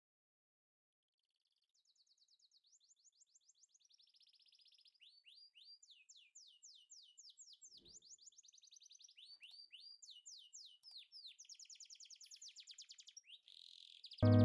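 Faint songbird song: rapid runs of repeated high sweeping notes and trills, starting a couple of seconds in and slowly growing louder. Music cuts in abruptly just before the end.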